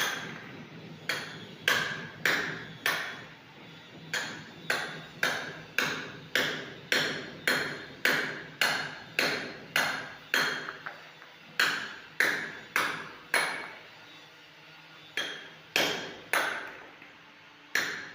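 Hammer striking a chisel to cut away plaster from a concrete column. The blows come about two a second, each with a short metallic ring, in runs with a couple of brief pauses.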